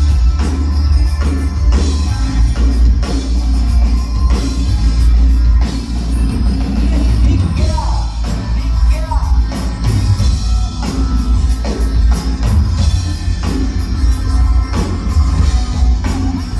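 Rock music: an instrumental passage of a rock band, with a steady drum-kit beat and heavy bass.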